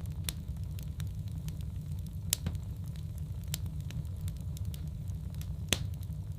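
Wood fire burning in a fireplace, crackling with irregular sharp pops over a steady low rumble; two louder pops, one a little past two seconds in and one near the end.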